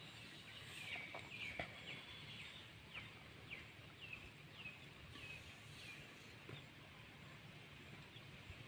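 Faint bird chirping: a run of short, falling high chirps about twice a second, fading out after about five seconds, over quiet outdoor background noise.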